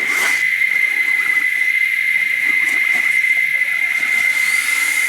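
Insects droning outdoors: one steady, unbroken high-pitched tone over a background hiss.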